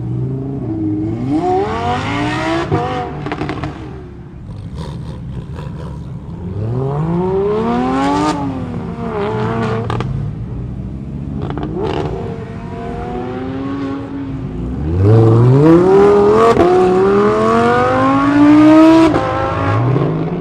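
Car engines accelerating hard several times, each run rising steeply in pitch. The longest and loudest run comes in the last quarter.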